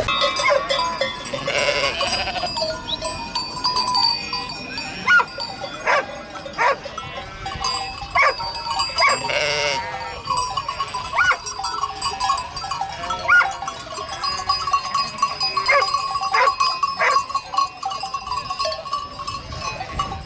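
A flock bleating: many short calls, one after another and overlapping, over a few steady ringing tones.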